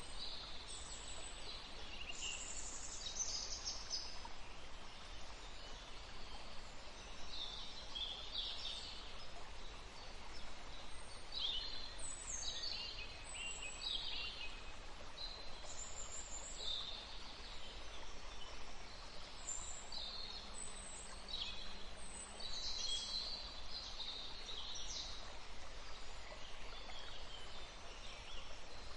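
Several songbirds chirping and trilling in quick, scattered phrases over the steady rush of a forest stream.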